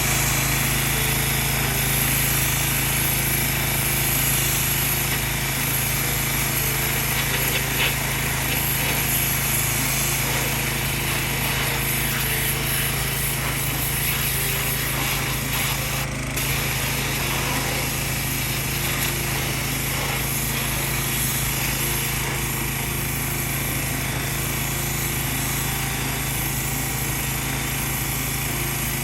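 Pressure washer running steadily, a constant machine hum under a wide hiss of spray.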